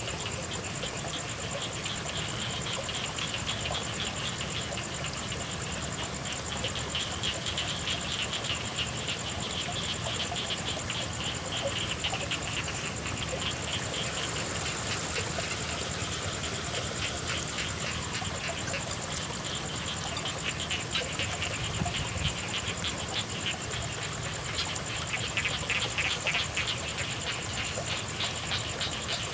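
Frogs calling in a chorus of rapid pulsing trills over steady rain, the calling swelling and fading in stretches and strongest near the end. A steady high-pitched tone runs underneath.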